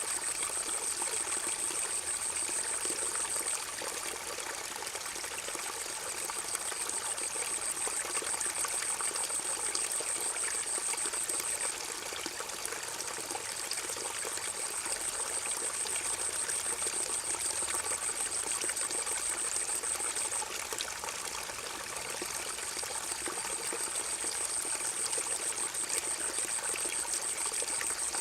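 River water flowing and trickling steadily. Over it a high-pitched buzz holds for several seconds at a time and breaks off for a second or so, three times.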